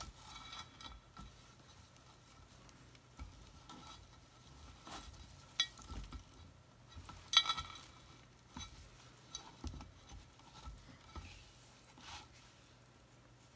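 Faint handling noise of rope being worked by hand: scattered light rustles and clicks, with two sharper clicks about five and a half and seven and a half seconds in.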